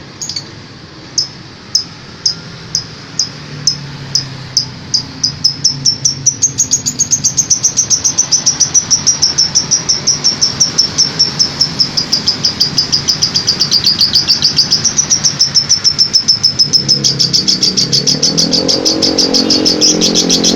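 Lovebird chattering in a long 'kekean' (ngekek) run: sharp high chirps, at first about two a second, speeding up after about six seconds into a fast unbroken chatter. A low engine hum comes in underneath near the end.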